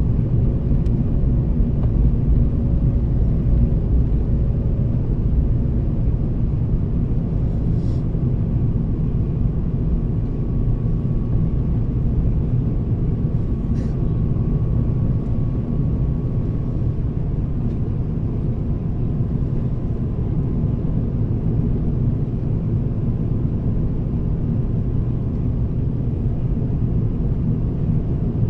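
Steady low rumble of an Airbus A350-1000's cabin noise, heard from a passenger seat, with two brief clicks.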